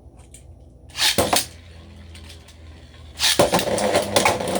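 Beyblade spinning tops launched into a stadium with a short loud burst about a second in, then whirring with a steady low hum. From about three seconds in they clatter against each other in a continuous run of quick knocks.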